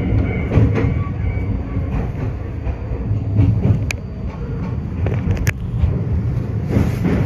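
Iyotetsu 3000 series electric train running, heard from inside the car: a steady low rumble with a few sharp clicks from the wheels and track, several of them while crossing a steel truss bridge.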